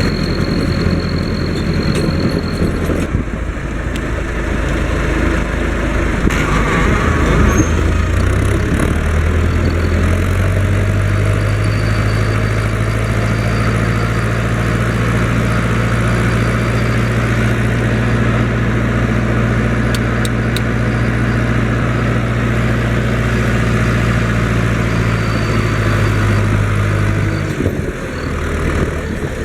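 Fendt Farmer 106 S tractor's four-cylinder diesel engine running steadily while pulling a maize planter, with the typical four-cylinder sound and a slight whistle. Engine speed rises about ten seconds in and dips briefly near the end.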